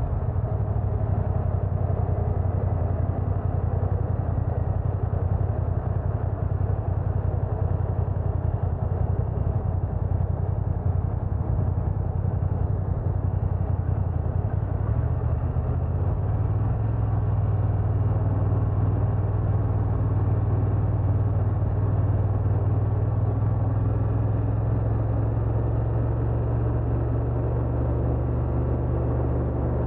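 BMW F900R parallel-twin motorcycle engine running steadily under way, heard from the rider's position with rushing noise around it. The engine note rises a little about halfway through and then holds.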